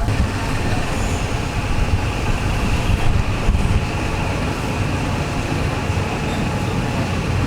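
Steady rumble and hum of a train, heard from inside a passenger carriage.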